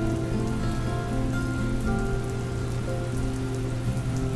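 Steady rain falling, with many fine drop ticks, under slow, soft instrumental music of held notes that change every second or so.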